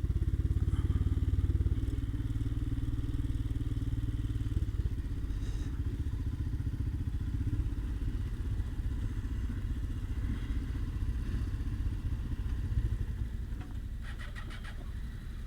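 Royal Enfield Himalayan's single-cylinder engine running at low speed as the motorcycle slows to park, its note gradually easing down. A few light clicks near the end.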